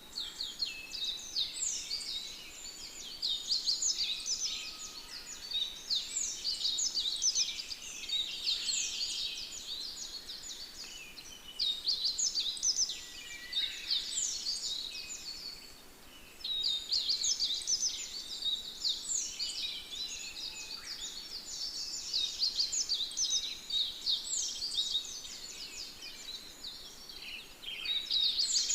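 A dense chorus of many small birds chirping and twittering together, rising and falling in waves with short lulls.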